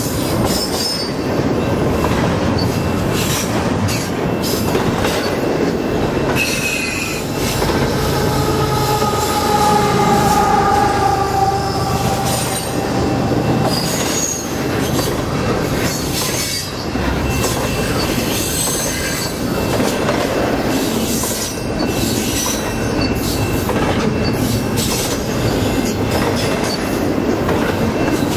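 Double-stack intermodal well cars rolling past close by: a steady, loud rumble of steel wheels on rail with repeated clatter from the trucks, and wheel squeal rising out of it, one long squeal of several held tones about a third of the way in and shorter, higher squeals later.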